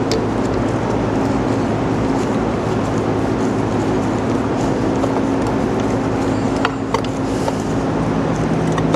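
Steady, loud machinery hum with a dense noise underneath, like a running fan or compressor, and two light metal clicks from tools or bolts about seven seconds in.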